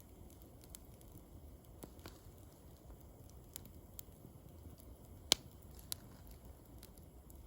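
Wood fire crackling quietly, with scattered sharp pops; the loudest pop comes about five seconds in, followed by a smaller one.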